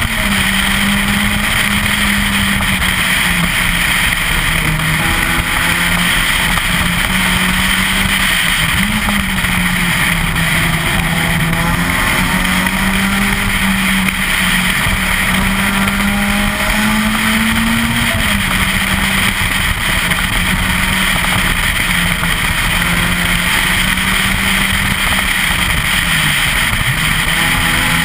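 Citroën Saxo VTS 16V rally car's 1.6-litre 16-valve four-cylinder engine running hard at high revs, heard from inside the car with road and tyre noise. The pitch holds fairly steady, with brief rises and dips a few times.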